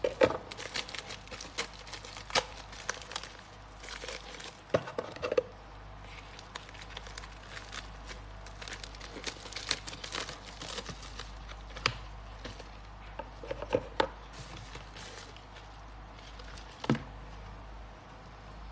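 Packaging and a small product being handled close to the microphone: crinkling and rustling with scattered sharp clicks and taps.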